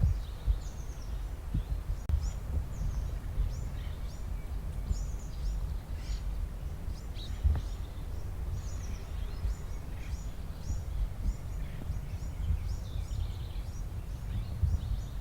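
Small birds chirping over and over, short high sweeping notes spread all through, over a steady low rumble with occasional dull knocks.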